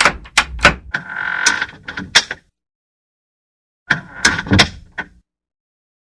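A door being worked on its hinges: a quick series of sharp knocks and clatters with a short hinge squeal about a second in, then, after a gap of dead silence, another burst of knocks and a brief squeal about four seconds in.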